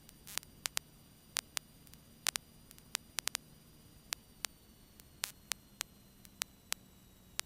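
Irregular sharp clicks and crackles of static on the aircraft's intercom/radio audio feed, about twenty of them spread unevenly, over a faint steady hiss and low hum with no speech on the line.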